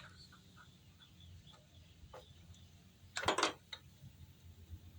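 Hand tools being handled on a mower engine: a few faint clicks, then a short metallic clatter about three seconds in.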